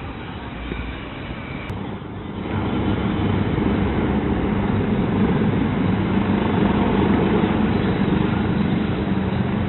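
Helicopter running, a steady mechanical noise that grows louder about two and a half seconds in.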